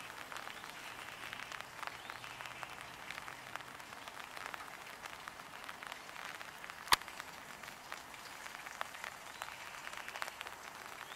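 Light steady rain pattering, with many small drop ticks on an umbrella. A single sharp click about seven seconds in.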